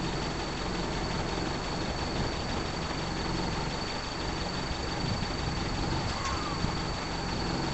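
Land Rover Series engine idling steadily on its own, a low even rumble under a steady hiss.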